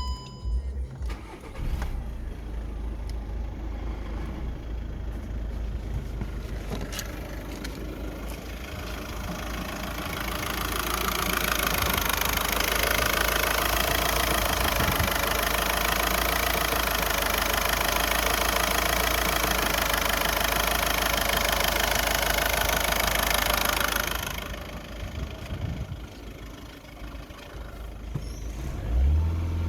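VW Golf 6's 1.6 TDI four-cylinder common-rail diesel engine (CAYC) running. It idles, then rises to a louder, raised speed held for about twelve seconds, and drops back to idle near the end.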